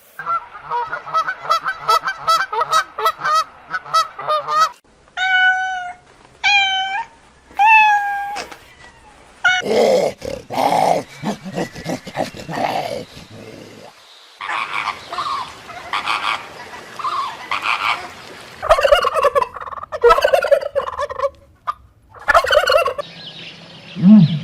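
A series of different animal calls one after another, opening with a rapid run of pulsed calls lasting about five seconds, then three short rising-and-falling calls, then several more varied calls separated by brief pauses.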